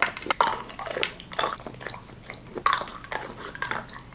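Close-miked biting and chewing of Milka chocolate: irregular crunchy snaps and wet mouth noises.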